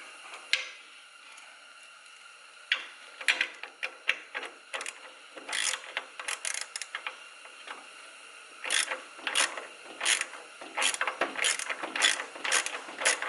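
Hand socket ratchet clicking in runs as two bracket bolts are snugged down, with a quiet pause of a couple of seconds near the start and faster, denser clicking in the second half.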